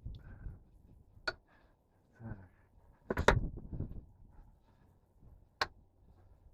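Handling noises: a few sharp clicks and knocks, the loudest cluster about three seconds in, with single clicks before and after it.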